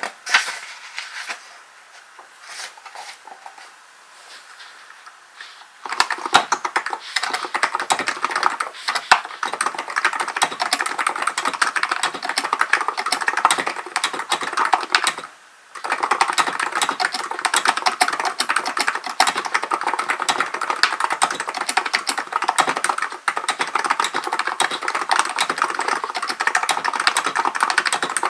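Typing on a Hansung GK898B electrostatic capacitive (contactless) keyboard. A few scattered light taps come first, then fast, continuous typing begins about six seconds in, with one brief pause about halfway through.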